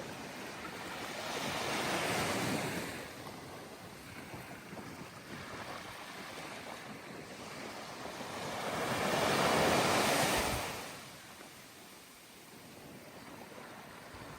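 Ocean waves washing onto a sandy beach: a steady hiss of surf that swells about two seconds in and again, louder, around nine to ten seconds, then falls back.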